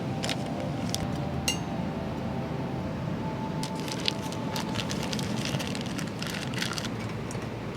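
Light clinks and clicks, a few at first and then a quick cluster in the middle, over a steady low background rumble.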